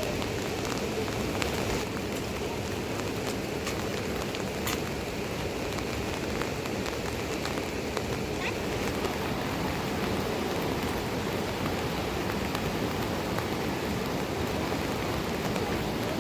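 Steady rain falling, with a few sharp drop-like ticks scattered through it.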